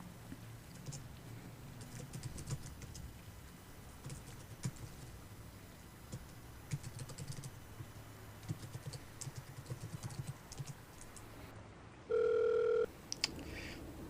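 Computer keyboard typing in short bursts of clicks over a steady rain-and-city ambience. About twelve seconds in, a single loud electronic telephone ring tone sounds for under a second.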